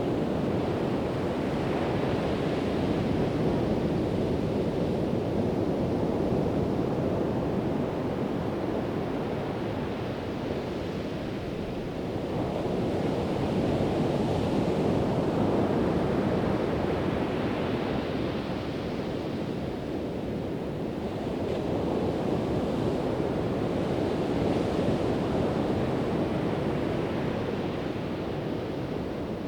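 Pacific Ocean surf breaking and washing up the beach, a steady rush of noise that swells and eases every several seconds as waves come in, with some wind on the microphone.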